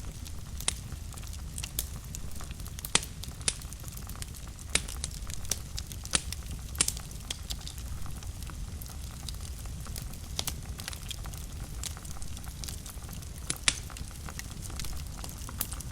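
Wood fire burning in a fireplace: a steady low rumble of flames with irregular crackles and sharp pops every second or so.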